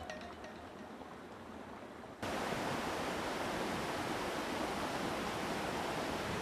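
The last notes of background music die away, then about two seconds in the steady rush of a mountain stream cuts in abruptly and carries on evenly.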